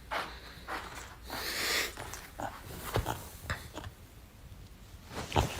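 A pet animal making short, breathy noises, with one longer hiss-like breath about a second and a half in.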